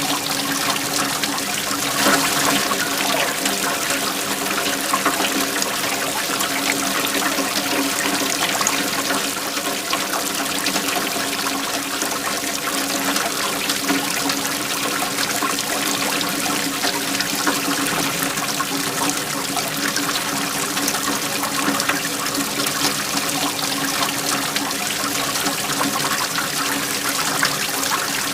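Waterfall: water flowing and splashing steadily without pause.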